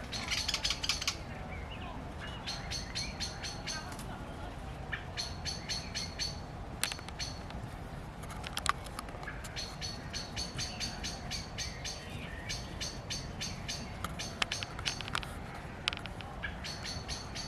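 A bird giving repeated harsh chattering rattles, in bouts of about a second, eight or so times with short pauses between. These are scolding calls of the kind birds use when mobbing a cat.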